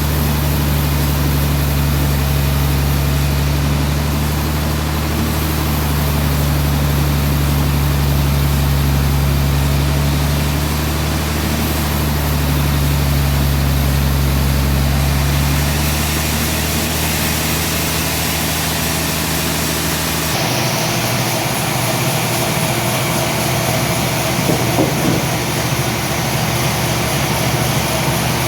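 Sawmill machinery running steadily with a low, even hum. About twenty seconds in the sound changes abruptly: the low hum drops away and a noisier, higher sound takes over.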